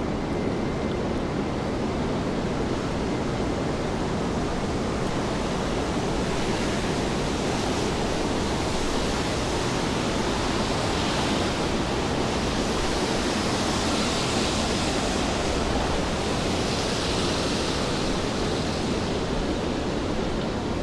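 Steady rain hiss on a wet city street. A brighter, higher hiss swells and fades three times in the second half.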